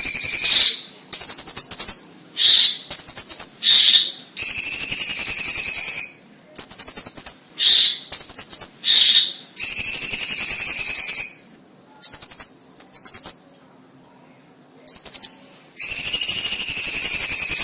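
Cucak cungkok songbird singing loud, high-pitched song phrases one after another. Long wavering phrases alternate with shorter, clipped notes, with a brief lull a little past the middle.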